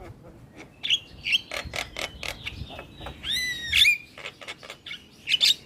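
Javan myna singing: a quick run of sharp clicking notes, then a bright warbling whistle about three seconds in, and a few more sharp notes near the end.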